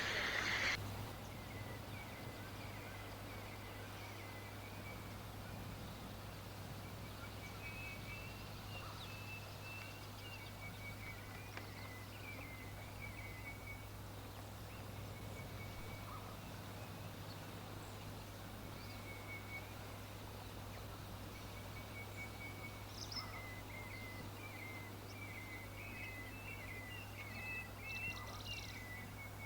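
Faint birdsong: short chirping notes that come and go, growing busier near the end, over a steady low hum. A louder sound cuts off within the first second.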